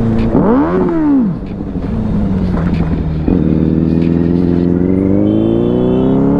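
Benelli 600i inline-four motorcycle engine giving a quick throttle blip that rises and falls. About three seconds in the throttle opens and the revs climb steadily under acceleration.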